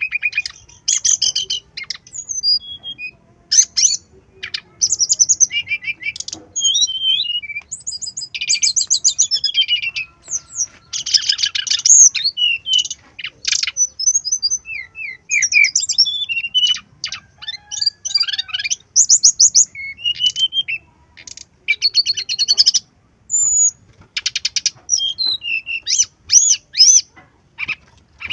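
Brown-chested jungle flycatcher singing a long, varied song of quick high chirps, trills and rapid repeated notes in close-packed phrases with short pauses between them.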